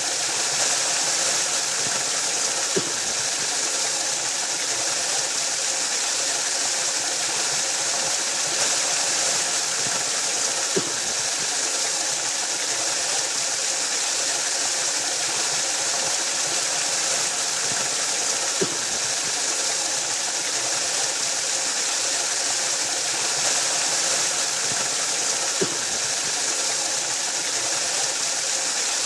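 Waterfall rushing steadily, an even hiss-like roar of falling water, with a brief low plop about every eight seconds.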